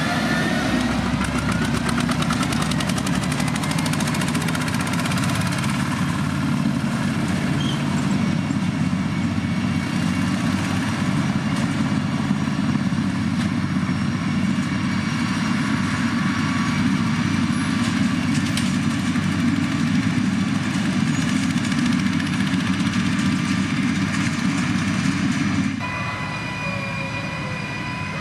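Heavy motor grader's diesel engine running steadily, with a thin high whine above the engine note. About three-quarters of the way through, the sound drops suddenly to a quieter level.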